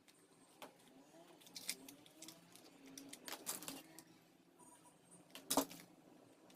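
Faint, scattered clicks, taps and short rustles of small objects being handled, with a sharper click about five and a half seconds in.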